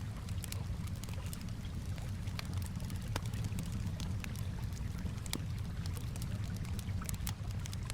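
Wood fire crackling with frequent sharp irregular pops, over a steady low wash of gently moving water.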